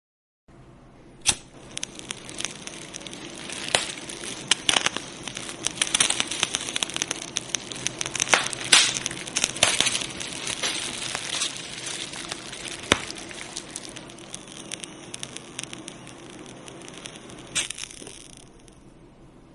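Fire burning with a steady hiss and many sharp crackles and pops, busiest in the middle and thinning out toward the end.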